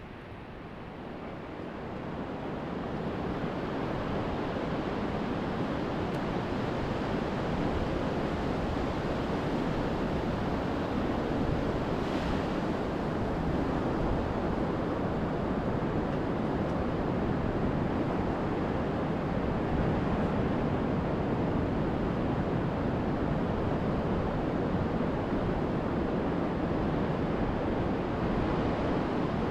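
Surf breaking on an open beach in a big swell: a steady wash of waves, with wind buffeting the microphone. It swells up over the first few seconds, then holds steady.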